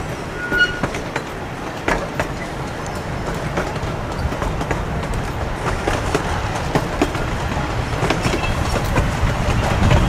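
Amusement-park ride train running along its track, a steady rumble with wheels clicking over the rail joints, growing louder toward the end.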